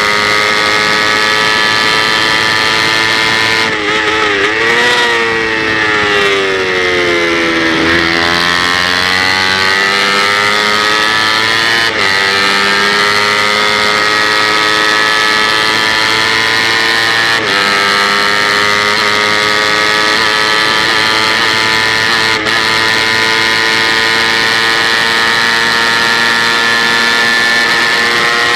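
Kawasaki Ninja 250 parallel-twin engine heard on board at racing speed, held at high revs over wind rush. A few seconds in the revs wobble and fall as the bike slows for a corner. They then climb steadily again, broken three times by quick upshifts.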